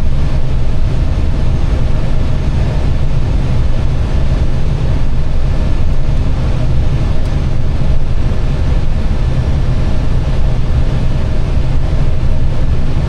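Steady roar of airflow and engines heard inside an Airbus airliner's cockpit on final approach: a constant low rumble with a faint steady hum above it.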